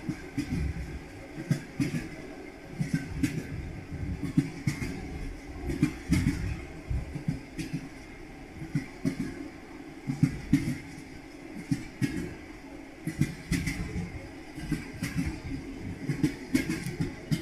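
Train wheels clattering over rail joints: groups of sharp knocks recurring every second or two over a low rolling rumble.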